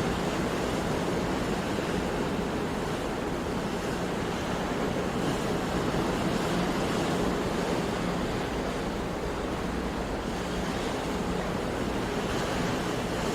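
Ocean waves washing on a shore, a steady rush of surf that swells and eases slowly.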